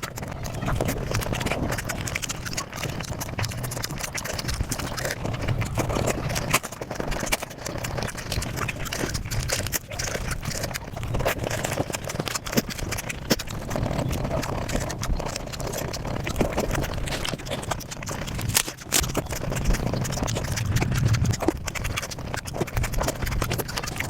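Close-miked eating sounds played back at five times speed: chewing and biting turned into a fast, dense stream of wet clicks and crunches.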